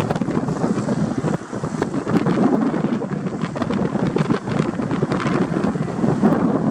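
Wind buffeting the microphone in uneven gusts, a loud rumbling flutter.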